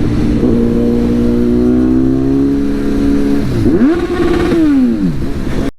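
Superbike engine revving: the pitch climbs slowly, shoots up about four seconds in, holds briefly, then drops away. It cuts off abruptly near the end.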